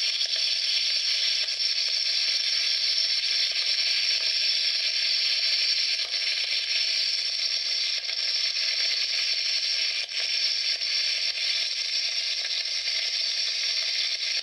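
Wood campfire burning strongly, a steady hiss with a few faint crackles.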